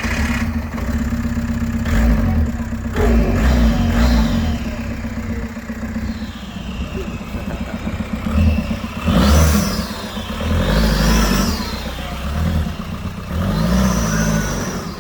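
1.9 TDI PD (ARL) diesel engine of a Mk2 Golf, just started and being revved several times. Each rev brings a high turbo whistle that rises and falls.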